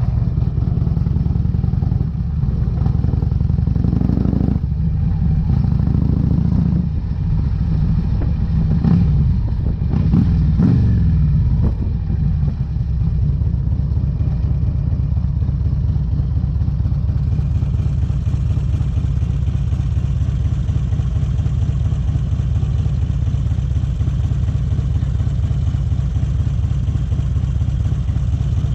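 2008 Harley-Davidson Electra Glide's V-twin engine running through Vance & Hines exhaust pipes. Its pitch rises and falls a few times in the first half, then holds a steady note.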